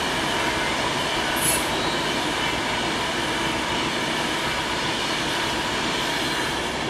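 Class 390 Pendolino electric train running through the station: a steady rush of wheels on rail with faint steady tones, and a brief high squeak about a second and a half in.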